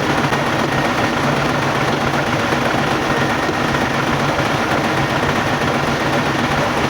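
Nissan GE13 V8 diesel truck engine running steadily.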